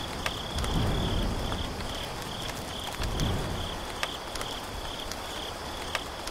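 Crickets chirping in a steady pulse, about three chirps a second, over rain, with low rolls of thunder about a second in and again about three seconds in.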